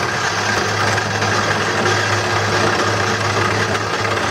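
Wood lathe running steadily, its motor humming low, with an even rushing hiss of a turning tool cutting the spinning black walnut bowl blank.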